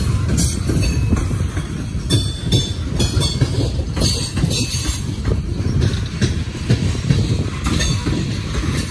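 Coal gondolas of a freight train rolling past at close range: a steady heavy rumble of steel wheels on rail, broken by irregular clicks and clacks and a few brief faint wheel squeals.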